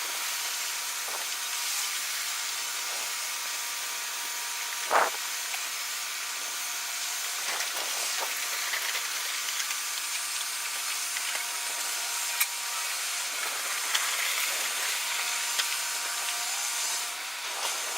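Car ferry's machinery at the berth: a steady hiss with a faint hum of fans and engines, broken by a few sharp knocks, the loudest about five seconds in.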